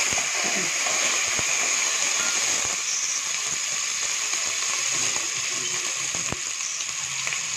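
Fried onions and ginger-garlic paste sizzling in hot oil in an aluminium pot: a steady frying hiss, with a few faint clicks.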